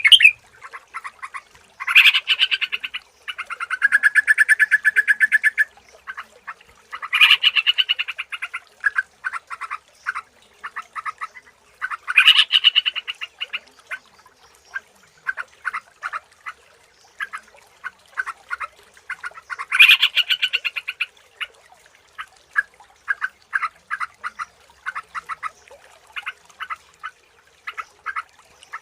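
Yellow-vented bulbul song: loud, bubbly bursts of rapid notes every few seconds, with a quick, steady chatter of short notes between them.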